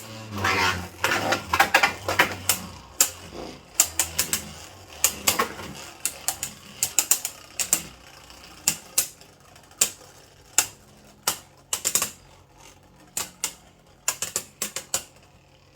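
Two Beyblade Burst spinning tops battling in a plastic stadium: rapid, irregular sharp clacks as they collide and hit the walls, thinning out over time and stopping near the end as the battle finishes.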